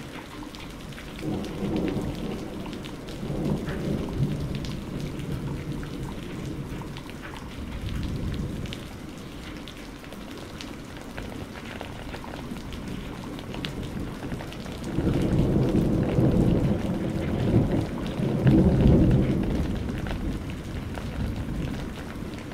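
Steady rain falling, with drops ticking throughout, and thunder rumbling twice: a shorter roll about a second in, and a louder, longer one in the second half.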